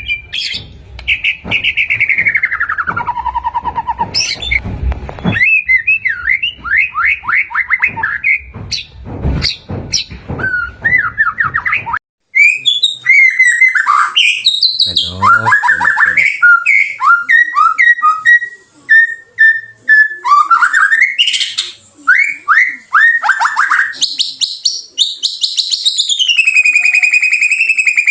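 White-rumped shama singing: a rapid run of varied sweeping whistles, trills and chattering notes. About twelve seconds in the recording cuts to a cleaner one with no background rumble, and a long falling whistle comes near the end.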